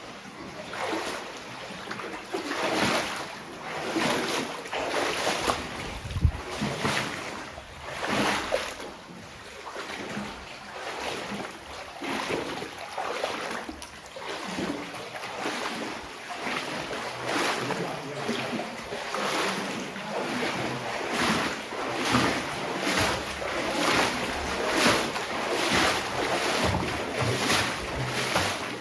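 Wading through water in wellies: a steady run of sloshing swishes, about one per stride, coming a little quicker later on.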